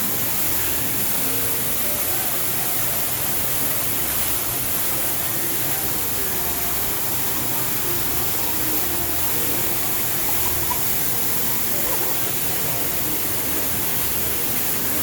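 Steady, even rush of falling water, with faint distant voices under it.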